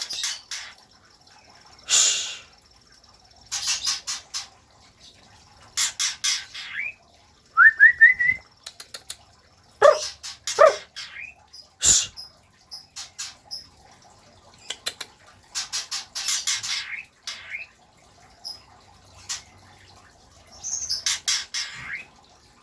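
White-rumped shama (murai batu, Medan type) singing: phrases of rapid sharp chattering notes mixed with quick rising whistles, separated by short pauses.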